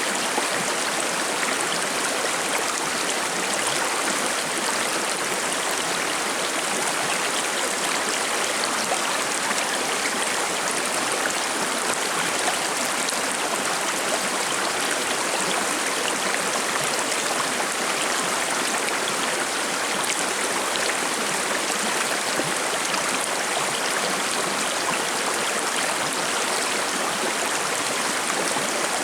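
Shallow forest river babbling and splashing over rocks: a steady, even rush of flowing water with no change.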